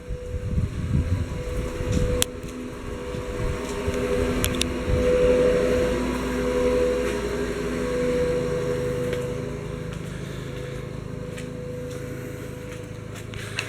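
An engine droning at a steady pitch over a low rumble, swelling in the middle and easing off toward the end.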